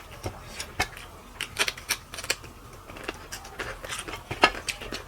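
Eating sounds from someone eating rice and fish curry: irregular sharp clicks and smacks of chewing and handling food, the loudest about four and a half seconds in.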